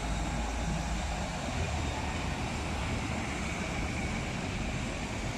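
Motorcycle running while being ridden, a steady low engine rumble with road and wind noise.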